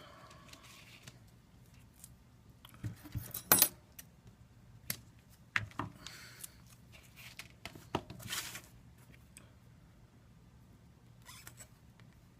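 Handling sounds of double-sided sticky tape being laid along an iPad 2 bezel. Scattered small clicks and taps, with two short scratchy bursts about three and a half and eight seconds in.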